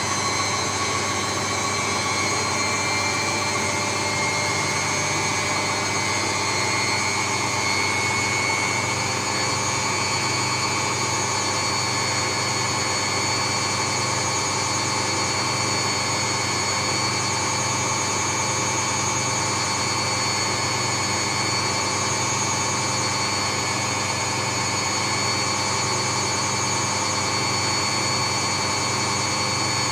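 Steady, unchanging mechanical rush and hum with faint constant whining tones above it, played as a continuous white-noise track.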